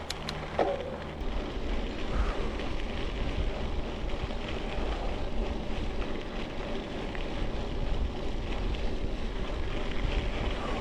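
Wind rushing over the microphone with the low rumble of a bicycle's tyres rolling along a trail, with a few sharp clicks in the first second.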